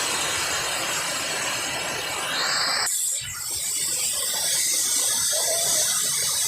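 Waterfall rushing: a steady, full noise of falling water, which about halfway through cuts abruptly to a thinner, higher hiss.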